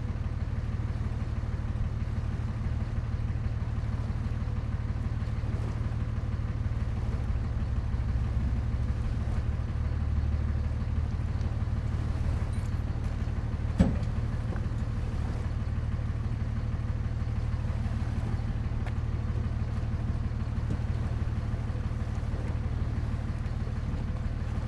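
An engine running steadily, a constant low drone without changes in speed, with a single sharp click about fourteen seconds in.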